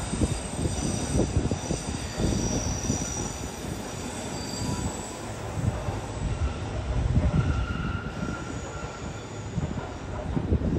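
Train moving slowly through the station, its wheels squealing on the rails in high thin tones over a low rumble and irregular clunks; a lower-pitched squeal comes in about seven seconds in.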